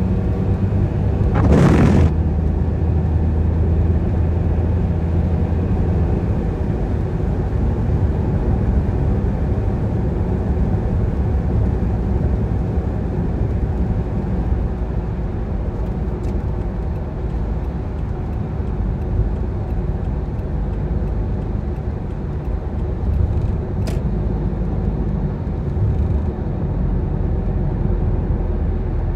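Car driving on a wet road: a steady low rumble of engine and tyres, with a brief loud whoosh about two seconds in and a short tick near the end.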